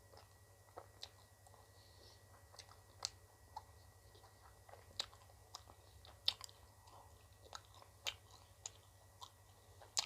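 Close-up mouth sounds of ice cream being bitten and chewed: irregular sharp crunches and wet clicks, about a dozen in all, the loudest about six seconds in and near the end.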